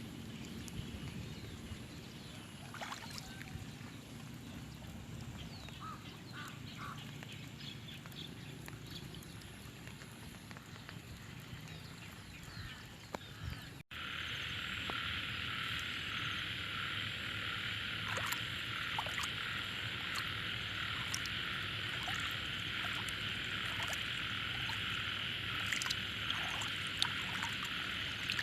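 Frogs calling in the flooded rice paddies after rain. For about the first half there are scattered calls over a low rumble. After a sudden cut about halfway through, a dense, steady massed chorus of frogs takes over.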